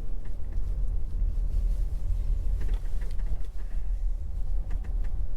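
A van driving slowly, with a steady low rumble and a few scattered creaks and rattles.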